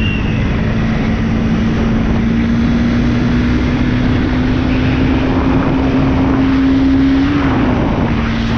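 Motorcycle engine running under way, its pitch slowly rising and then dropping about seven seconds in as the bike eases off, with wind rushing over the microphone.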